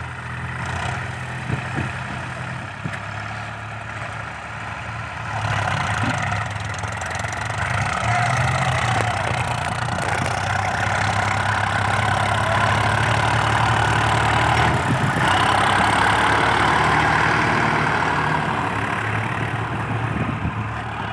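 VST Shakti Viraaj 9045 tractor's diesel engine running, first near idle, then picking up revs about five seconds in and running louder and harder until it drops back near the end.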